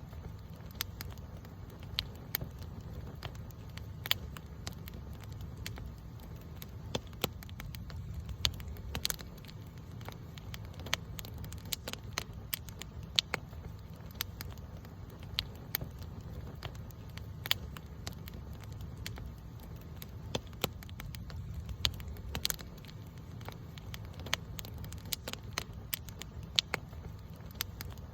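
Wood campfire burning and crackling, with irregular sharp pops and snaps over a steady low rumble of flame.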